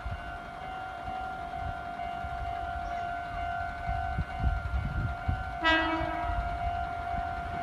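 A level-crossing warning signal sounds its steady tone while a Meitetsu train rumbles low at the crossing. A bit past halfway through, the train gives one short horn blast.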